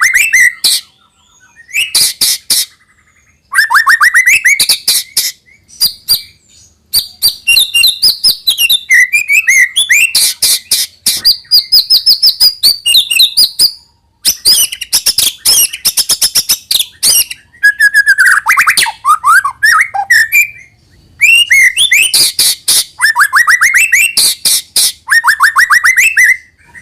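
White-rumped shama (murai batu) singing loudly in long, varied phrases. Rapid rattling ticks alternate with rising whistled sweeps and fast warbles, with short pauses between phrases.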